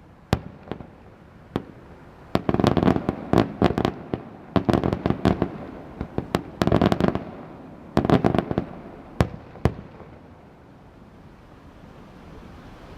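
Aerial fireworks going off: single sharp bangs between dense bursts of rapid crackling reports, with the last few seconds quieter.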